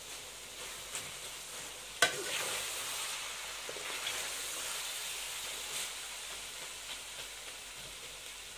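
Chicken, vegetables and scrambled egg sizzling in a metal pan as a steel ladle stirs them, with a sharp knock about two seconds in and a few lighter ticks of the ladle.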